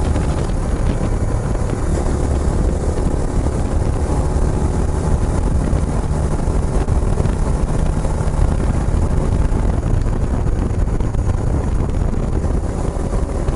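Kawasaki Estrella's air-cooled single-cylinder engine running steadily through a Yamato aftermarket muffler, a low, even exhaust note while riding.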